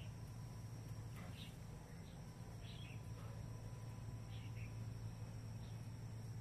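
A few short, high bird chirps, spaced a second or more apart, over a steady low hum of outdoor background.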